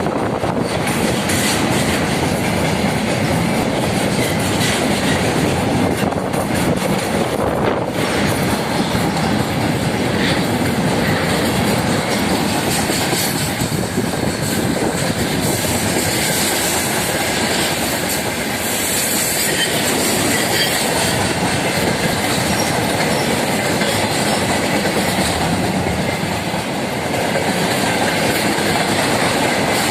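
Freight train rolling past, a steady loud rumble and rattle of wagon wheels on the rails.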